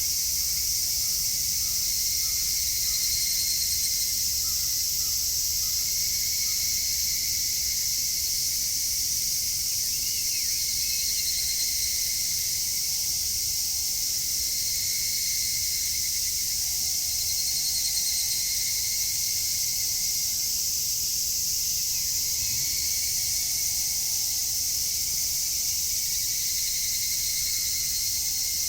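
Dense, steady chorus of evening cicadas (higurashi) and other insects, high-pitched shrilling with a pulsing lower band, and a few faint chirps.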